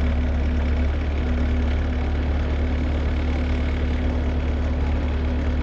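Work vehicle engine idling steadily: a low drone with a steady hum above it.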